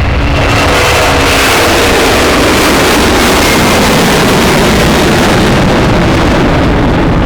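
Jet airliner's engines at take-off thrust: a loud, steady rushing noise with faint whining tones. It grows brighter and hissier about a second in and dulls again toward the end as the aircraft goes by.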